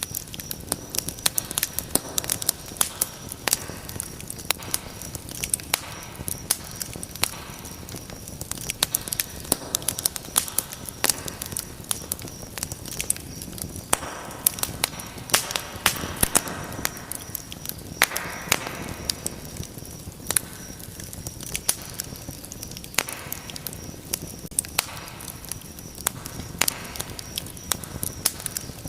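Wood fire in a fireplace burning steadily, with frequent sharp crackles and pops over a soft hiss of flames.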